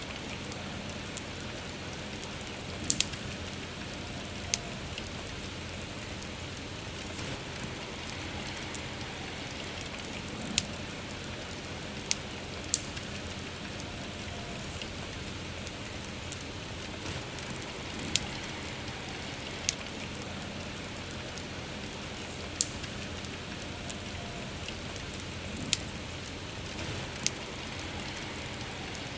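Steady soft rain with a bonfire crackling, sharp pops breaking through every second or two.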